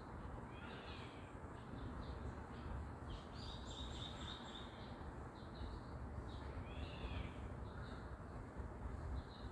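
Wild birds calling over a steady background hiss: short arched calls about a second in and again near the end, and a quick run of high chirping notes in the middle.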